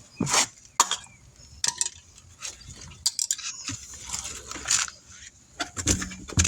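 Irregular metal clinks and clanks, with a jingle like keys, as tools and equipment are handled; a dozen or so sharp knocks spaced unevenly.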